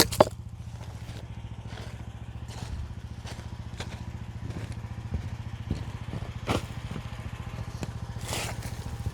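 QH13R mini excavator's small engine running steadily at idle, with a few short clanks and knocks spaced a second or more apart.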